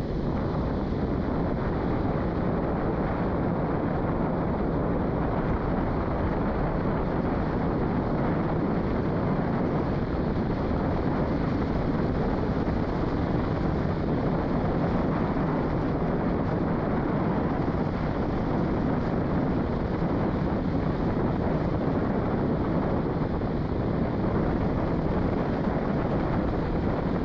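Steady rumbling road and engine noise of a truck driving slowly over rough ground.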